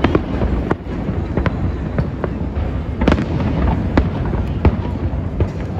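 Fireworks display: a rapid, irregular string of bangs and cracks over a continuous low rumble.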